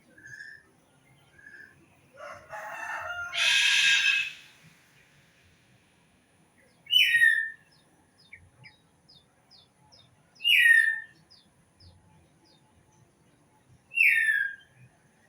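Birds calling: one loud call lasting about two seconds a couple of seconds in, then three short calls that fall in pitch, evenly spaced about three and a half seconds apart, with faint quick chirps between them.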